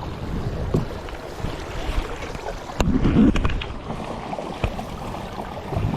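Kayak paddling: paddle strokes in the water with a few sharp knocks, the loudest about halfway through, over wind rumble on the microphone.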